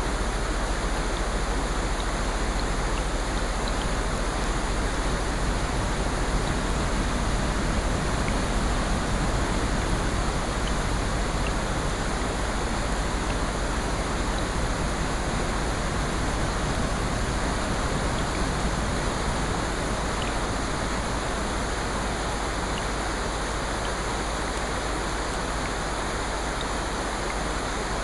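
Steady, even hiss of rushing water with no separate drops or waves standing out, swelling a little for a few seconds near the middle.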